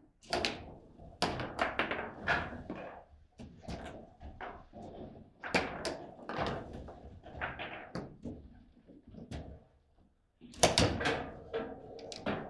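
Table football play: the ball knocking against the rod figures and the table walls, with rods and handles clattering in a fast, irregular series of knocks. After a brief lull, a loud cluster of knocks comes about ten and a half seconds in.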